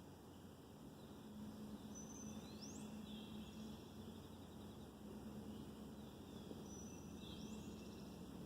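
Songbirds singing faintly: the same short phrase, ending in a quick upward-sweeping note, comes twice about five seconds apart, with softer chirps between. Under it runs a faint steady low hum.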